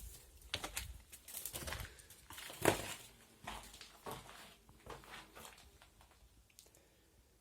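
Irregular crunching and scuffing footsteps, loudest about two and a half seconds in, thinning out near the end.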